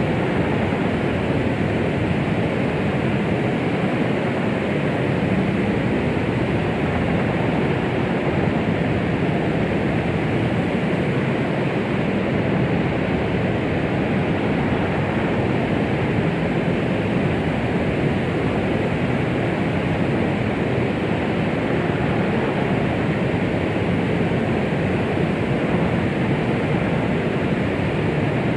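Steady, unbroken rushing hiss of white noise, weighted toward the low end rather than bright. It is the kind of womb-like noise played to soothe a baby to sleep.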